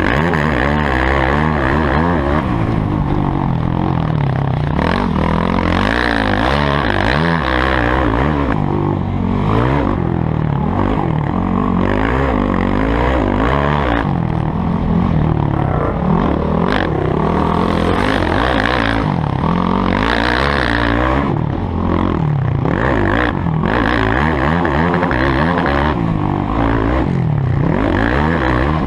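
Motocross bike engines revving hard, their pitch climbing and dropping again and again as the riders work the throttle and shift.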